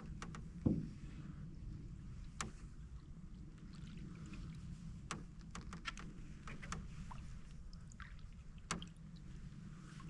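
Canoe being paddled on quiet water: a low steady rumble with scattered light clicks and drips from the paddle, and one louder knock under a second in.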